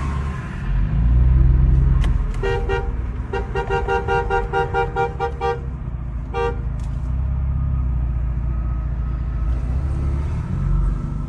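Vehicle horn honking: starting about two seconds in, a run of short, rapid blasts lasting about three seconds, then one more short blast a second later. A steady low rumble of highway traffic sits underneath.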